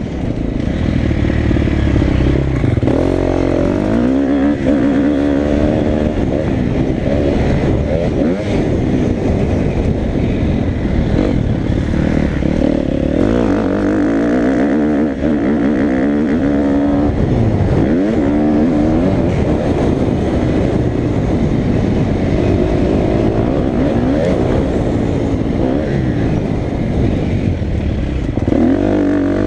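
KTM motocross dirt bike engine revving hard and easing off over and over, its pitch climbing and dropping through the gears.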